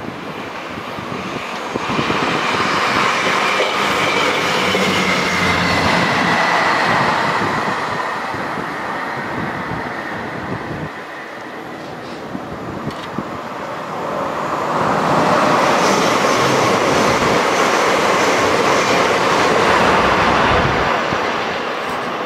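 Train passing on the main line, its wheels running and clattering over the rails. The noise swells twice, for several seconds each time, with a dip between them.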